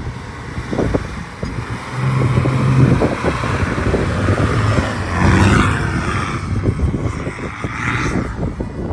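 A 4WD vehicle driving down a sandy beach track: its engine runs under load, with tyre and road noise. The engine gets louder about two seconds in.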